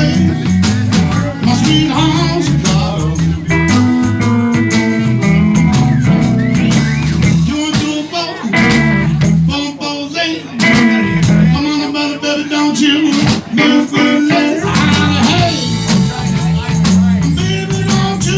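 A live blues band playing an instrumental break, with a lead line over bass and drums.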